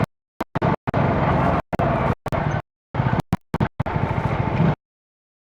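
CFMoto 250NK motorcycle's single-cylinder engine running on the move, the sound cut to dead silence again and again in short dropouts, with a gap of about a second near the end.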